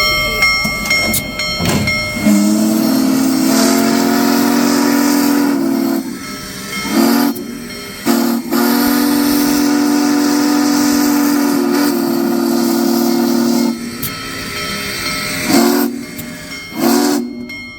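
Steam locomotive whistle sounding a chord of several tones: a long blast, two short toots, a second long blast, then two more short toots, over a steady hiss of steam.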